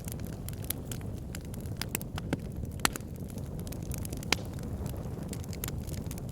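Wood fire burning in a log burner: a steady low rumble with irregular crackles and pops, two of them sharper and louder, a little under three seconds in and just after four seconds in.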